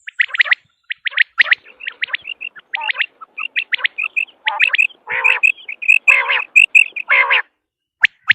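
Common quail calling: a quick, uneven run of short, sharp, high-pitched calls, growing busier and louder in the second half before breaking off just before the end.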